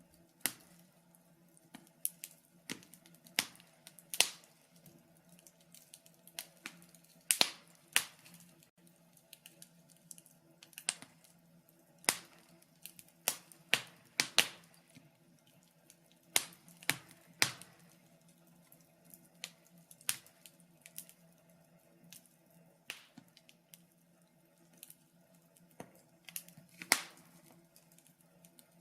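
Wood fire in a fireplace crackling, with irregular sharp pops and snaps of uneven loudness, one to three a second, over a faint steady hum.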